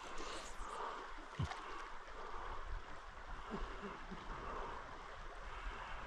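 Creek water running steadily over a riffle, with a short low thump about a second and a half in.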